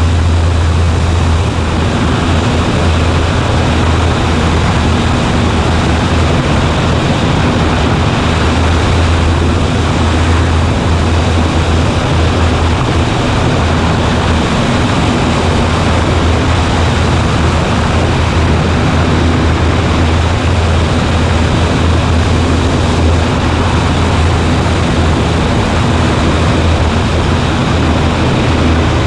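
Cessna 140A's propeller and four-cylinder Continental engine running steadily in cruise, heard from inside the cockpit as a loud, even drone with a deep hum and rushing air noise.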